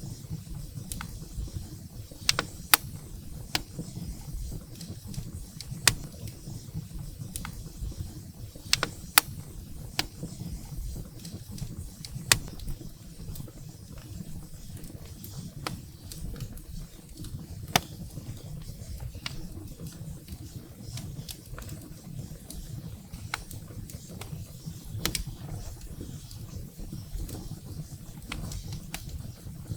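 Wood fire burning in a fireplace: scattered, irregular sharp crackles and pops of burning firewood over a low, steady rumble of the flames.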